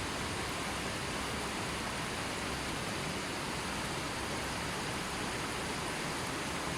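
A gently flowing river, its water rushing in a steady, even wash of noise with no birds or other sounds.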